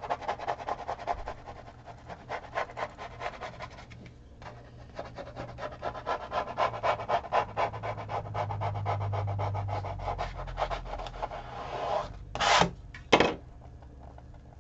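Vinyl being rubbed and pressed down onto a stretched canvas: a fast, dense run of scratchy rubbing strokes, with two short louder rasps near the end.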